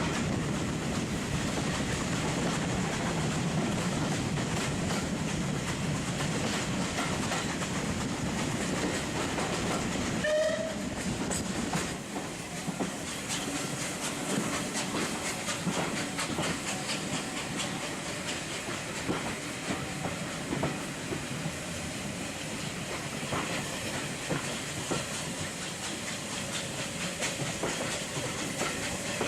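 Steam-hauled passenger train running, heard from a carriage window: a steady rumble with wheels clicking over the rail joints. About ten seconds in, a short whistle sounds once; after it the rumble eases and the wheel clicks stand out more.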